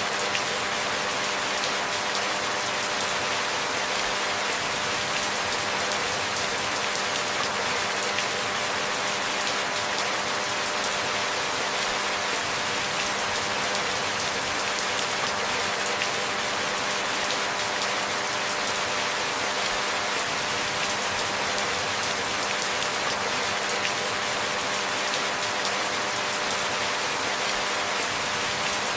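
Steady rain falling, an even hiss of fine drops with no change in strength.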